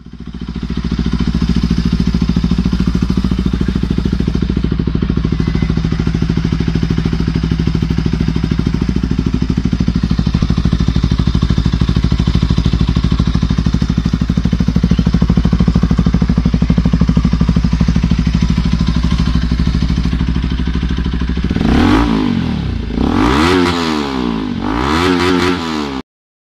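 Bajaj Pulsar RS 200's single-cylinder engine idling steadily through an aftermarket exhaust, then revved about three times in the last few seconds, the pitch rising and falling with each blip.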